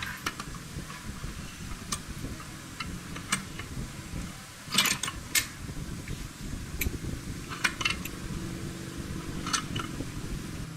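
Metal tools and parts clinking now and then, a sharp clink every second or two with a quick double clink near the middle, over a steady low hum.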